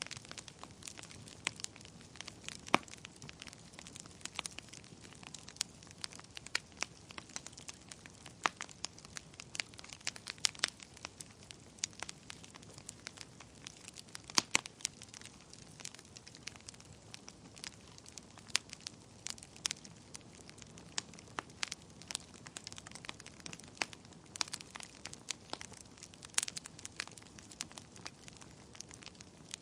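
Wood fire crackling in a fireplace: irregular sharp pops and snaps, several in most seconds and a few louder ones, over a soft low hiss of flames.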